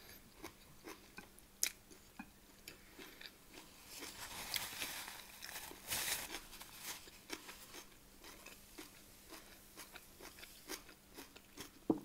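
Faint close-miked chewing of a mouthful of rice, with many small wet mouth clicks. Around four to six seconds in come a few soft, breathy sounds into a tissue held over the mouth and nose.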